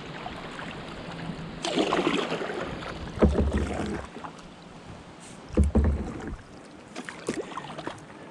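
Sea kayak paddle strokes: the composite paddle blades dipping and splashing in the water alongside the hull, with a few short low bumps.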